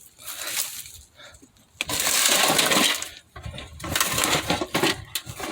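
Rummaging with an old metal tackle box: a loud scrape lasting about a second, about two seconds in, then rattling and clinking of small metal objects.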